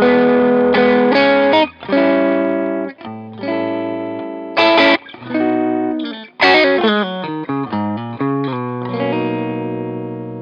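Fender Custom Shop Telecaster electric guitar played through an amp: held, ringing chords, several cut off short and struck again.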